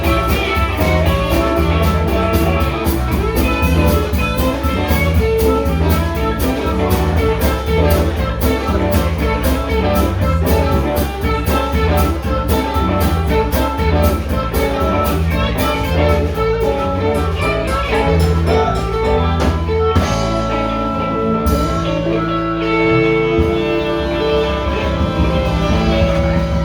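Band playing an instrumental passage on guitar, bass and drum kit, with a steady drum beat under the guitar. About 20 seconds in the drums drop out, leaving held guitar chords and bass notes ringing.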